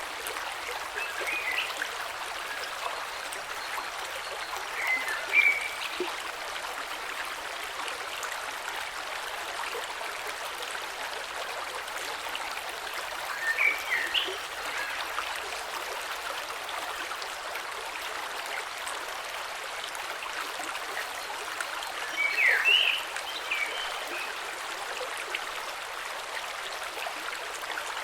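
Gentle mountain creek flowing steadily over stones, a constant rush of water. Four brief, higher-pitched sounds stand out above it.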